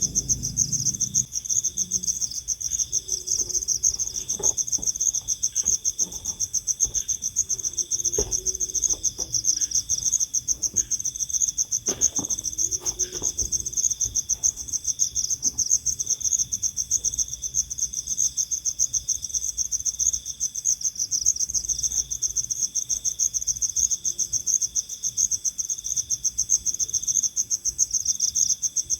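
Crickets trilling steadily, a fast high-pitched pulsing with a lower chirp repeating about once a second. A few faint taps and rustles come in the first half.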